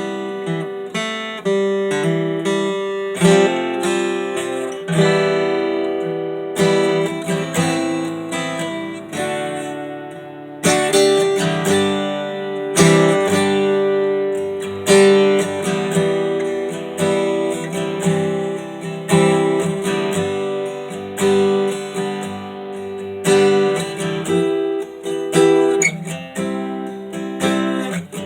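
1967 Gibson Gospel flat-top acoustic guitar being strummed, chords struck about once a second and left to ring. The guitar has just been repaired and set up with low action, and this is its playing test.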